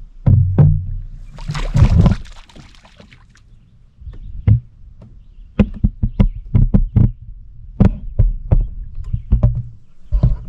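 Canoe being paddled: irregular hollow knocks and thumps from paddles and gear against the hull, over a low rumble, with a brief rushing splash about a second and a half in.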